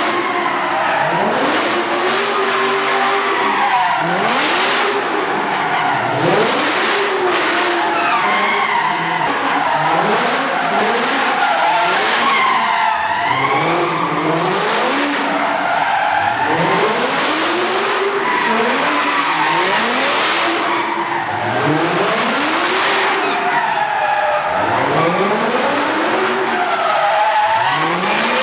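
A car's tyres squealing and screeching as it spins them, with the engine revving up again and again, about every one to two seconds.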